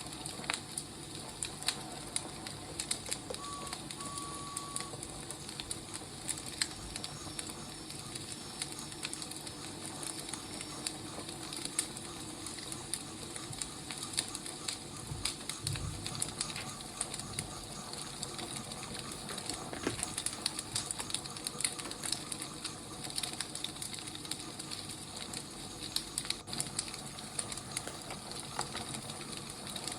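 Wood fire burning, with frequent irregular crackles and pops over a steady hiss.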